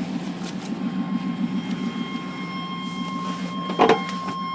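1997 Chevy truck's engine idling through true dual straight pipes, a steady low pulsing rumble. A thin, steady high tone joins about a second in, and there is a short louder sound near the end.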